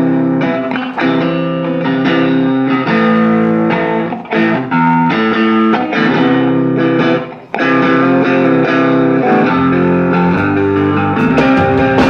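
Live rock band playing, led by strummed electric guitar chords that ring on between strokes, with a bass line underneath.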